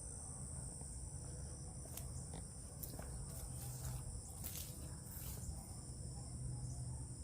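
Steady high-pitched insect chorus, with a few faint clicks and steps in the middle.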